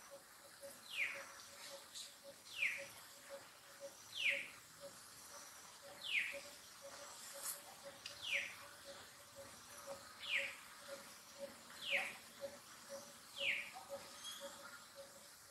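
A bird repeating a short whistled call that falls in pitch, about once every two seconds, over a faint, steady, fast-pulsing lower tone.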